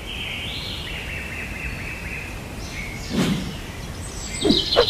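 Birds chirping and trilling over steady outdoor ambience, with a short sudden sound about three seconds in and denser, higher chirping near the end.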